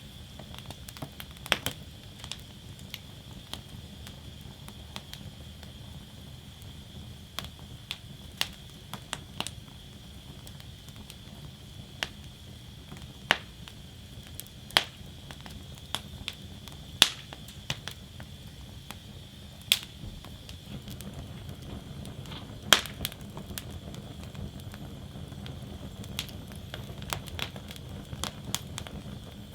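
Wood fire burning in a fire basket, crackling with sharp, irregular pops every second or two over a low, steady rush of flame.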